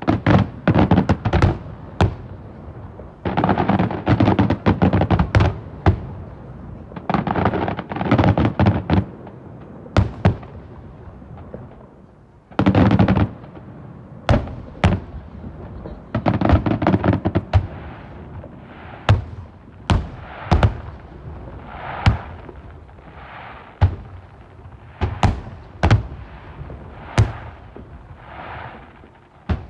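Fireworks display: a run of sharp bangs from bursting shells, with dense clusters of rapid bangs every few seconds. In the second half, single bangs alternate with short swelling hisses.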